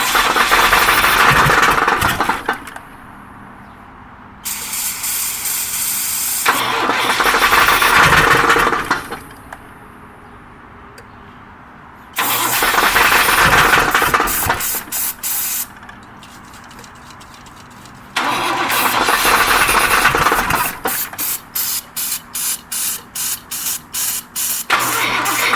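A 1991 Pontiac Firebird's engine being cranked by its starter in four separate attempts with pauses between, the last one cutting in and out rapidly near the end: a hard-starting engine that will not start.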